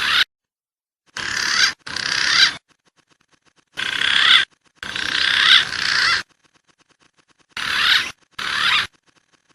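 Green pigeon (punai) whistling calls, in short bursts of rising and falling whistles that mostly come in pairs, about seven bursts with abrupt starts and stops.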